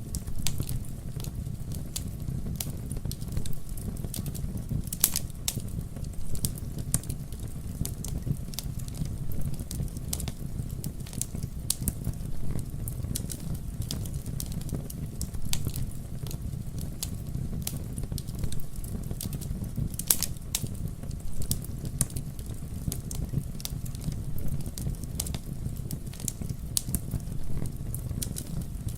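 Campfire burning with a steady low rumble of flames and irregular sharp crackles and pops of the wood, a couple of louder pops standing out about five seconds in and near twenty seconds.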